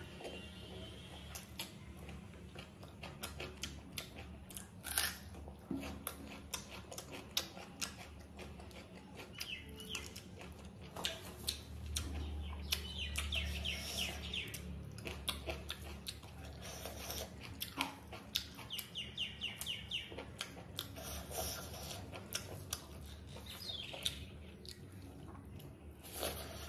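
Close-miked eating sounds: fingers mixing rice and chicken gravy on a plate and wet chewing with many small smacks and clicks. Birds chirp in the background a few times.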